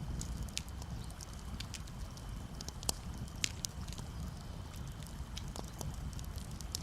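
Campfire crackling, with irregular sharp pops and two louder snaps near the middle, over a steady low rumble of gentle waves.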